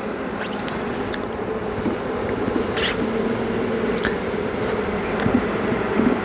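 A colony of honeybees buzzing steadily around an open hive, with a few short ticks over the hum.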